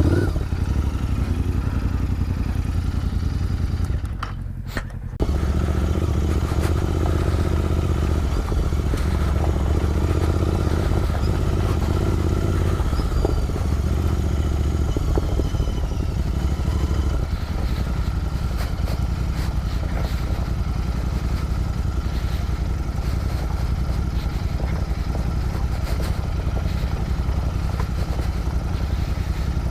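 Royal Enfield Interceptor 650's 648 cc parallel-twin engine running under way on the road. The engine sound drops away for about a second, about four seconds in, then picks up again and runs steadily.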